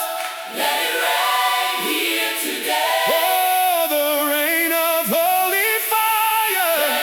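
Layered voices singing a sustained, mostly unaccompanied passage of a worship anthem, with no bass or drums beneath them.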